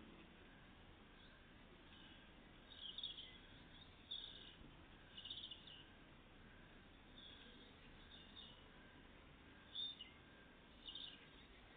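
Faint, short, high-pitched chirps from tits, about seven scattered calls over quiet background noise.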